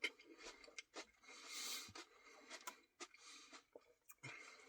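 Faint close-up eating sounds from someone eating a Dairy Queen cookie Blizzard: scattered small clicks with a soft hiss near the middle.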